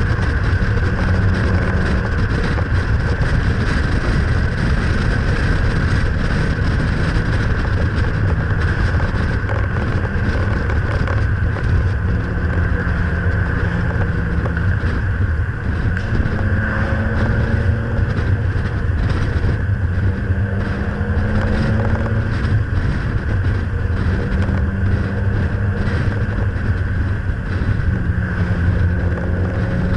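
Nissan Pulsar GTI-R's turbocharged SR20DET four-cylinder running at a steady cruise, heard from a camera mounted on the outside of the car, with wind rushing over the microphone. The engine note shifts slightly up and down every few seconds as speed varies.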